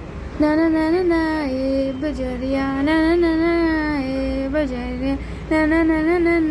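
A woman singing a tune unaccompanied, in long held notes with short breaks between phrases, over a low steady background hum.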